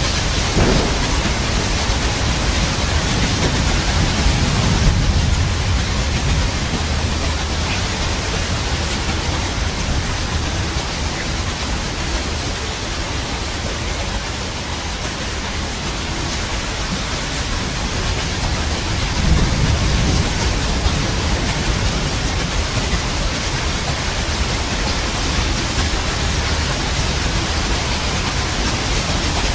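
Steady heavy rain with low rolling thunder, swelling twice: a few seconds in and again about two-thirds of the way through.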